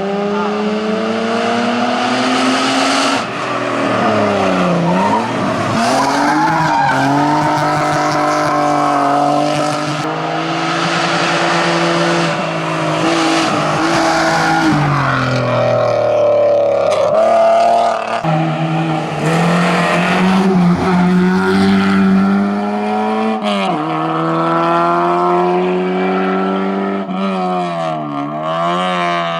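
Hillclimb race cars driven flat out: a Ford Sierra's engine revving hard, its pitch climbing and dropping sharply at each gear change, then about two-thirds through a Citroën AX takes over, revving the same way through its gears.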